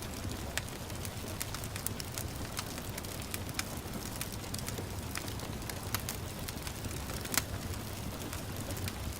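Wood fire crackling in a fireplace: irregular sharp pops and snaps, one louder pop a little past seven seconds in, over a steady hiss of gentle rain and a low rumble of the fire.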